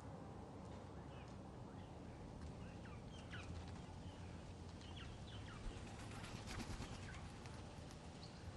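Small birds chirping faintly: a scatter of short, quick downward-sweeping calls, busiest through the middle, over a steady low background rumble.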